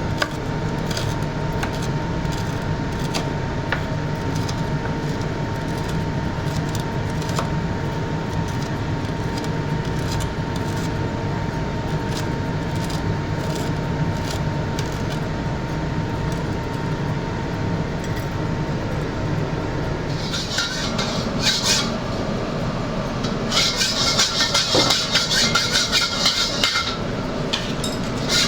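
Kitchen cooking sounds: a steady hum with a faint thin whine. From about twenty seconds in come spells of hissing sizzle and metal clatter of a utensil working in a pan.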